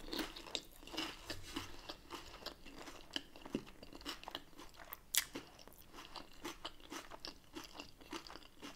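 Close-miked chewing of a mouthful of tortilla topped with shrimp ceviche: soft, irregular crunches and mouth clicks, with one sharper crunch about five seconds in.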